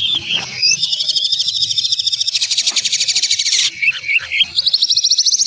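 Songbird song: fast, harsh, rattling trills, some rising in pitch, broken by short chirping notes. A long dense trill runs through the middle, and another rising trill starts near the end.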